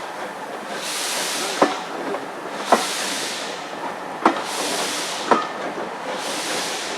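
Steam locomotive working at low speed, its exhaust beats coming as soft hissing chuffs about every two seconds. Sharp clicks come in two pairs as train wheels cross a rail joint.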